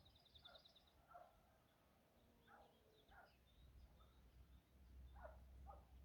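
Birds calling faintly: a short high trill in the first second, then repeated short, falling lower calls. A low rumble builds in the second half.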